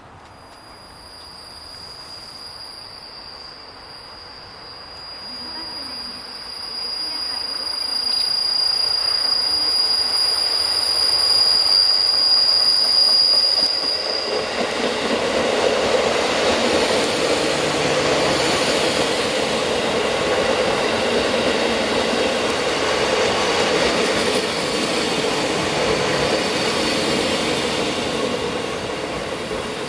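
JR Hokkaido 711 series electric train coming into the station, growing louder. A high steady squeal runs through the first half, then a loud rumble of the cars passing close from about halfway on.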